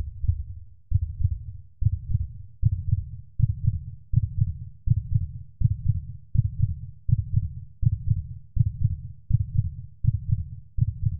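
Heartbeat sound effect: an even run of low, muffled thumps about every three-quarters of a second, spaced a little wider in the first couple of seconds.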